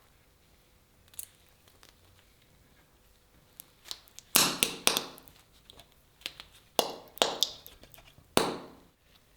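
A few sharp knocks, about six strikes in two clusters starting a little over four seconds in, each dying away quickly.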